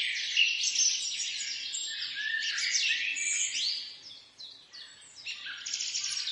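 Several birds chirping and singing together, a dense chorus of quick high chirps and whistles, thinning briefly about two thirds of the way through before picking up again.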